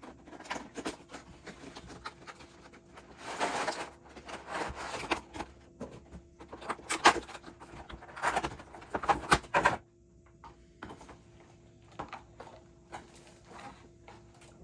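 Packaging being handled during an unboxing: rustling and a run of irregular clicks and knocks for about ten seconds, then only a few faint clicks, over a faint steady hum.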